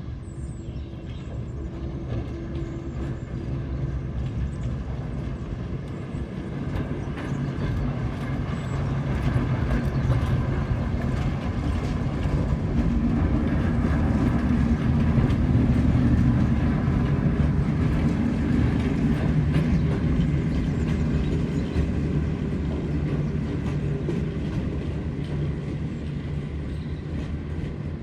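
A locomotive and train moving along the track: a steady low rumble that builds over the first half, is loudest about halfway through, then eases off as it passes.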